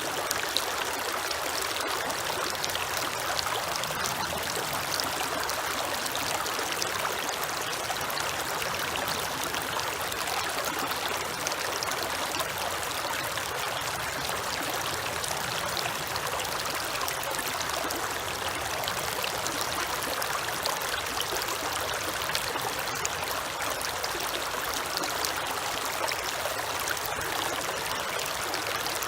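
Creek water running steadily over rocks, a continuous rushing with fine splashing and trickling.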